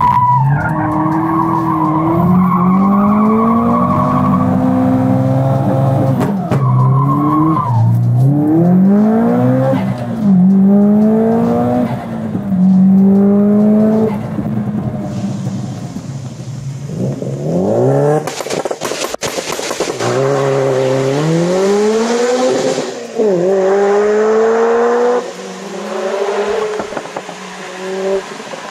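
Subaru Impreza GC STI's engine revving hard again and again, its pitch climbing and falling back as the car is driven aggressively, with tyre squeal. A cluster of sharp cracks comes about two-thirds of the way through.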